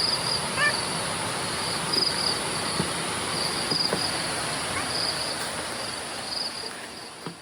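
Insects chirping in short repeated trills, about one every second, over a steady outdoor background hiss, with a few brief higher chirps at the start; the sound fades out near the end.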